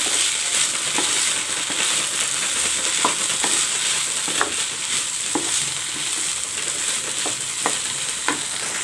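Diced potato, carrot, bean and onion filling sizzling in oil in a kadai, stirred with a wooden spatula. The spatula knocks and scrapes against the pan at irregular moments, about once a second, over a steady frying hiss.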